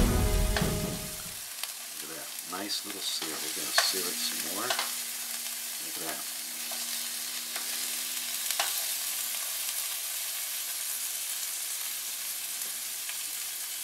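Salmon fillets searing in oil in a nonstick frying pan: a steady sizzle, with a few light clicks of metal tongs as the fish is turned. A burst of music fades out in the first second and a half.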